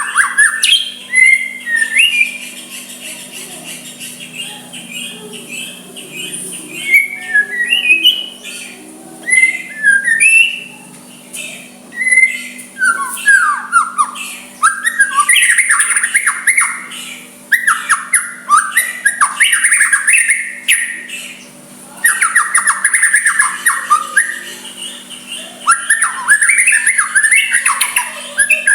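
White-rumped shama (murai batu) singing: varied whistled phrases with sliding notes, turning about halfway through into longer runs of rapid, harsh chattering notes, over a faint steady low hum.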